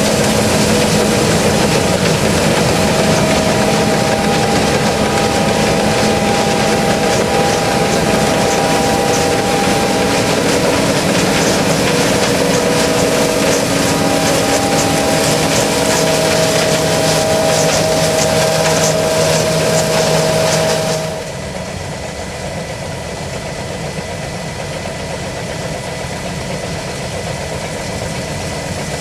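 John Deere S660i combine harvester running steadily, a loud machine noise with several held whining tones. About 21 seconds in, the sound drops suddenly and goes on quieter and duller.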